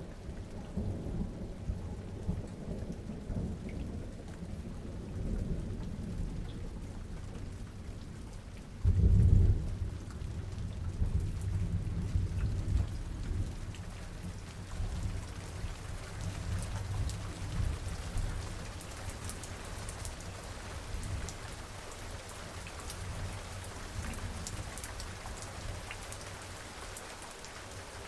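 Steady rain with distant thunder rolling beneath it. About a third of the way in, one much louder thunderclap swells up, then rumbles on for several seconds before dying away, leaving rain with individual drops ticking.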